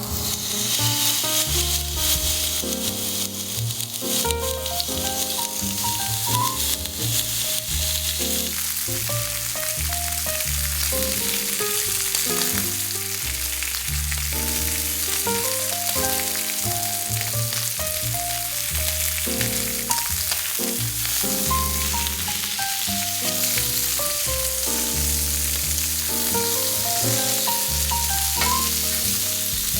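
Food sizzling as it fries in a pan, a steady hiss that starts suddenly and keeps on, with background music playing throughout.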